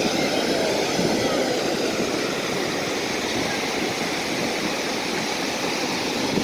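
Sea surf: a steady wash of small waves breaking on a beach.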